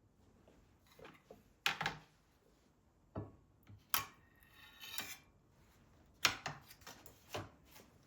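A handful of separate knocks and clinks of household objects being handled and set down, about one every second, a couple of them with a brief ring.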